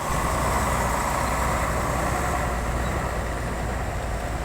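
A motor vehicle engine running steadily, a low hum with a steady mid-pitched drone over it.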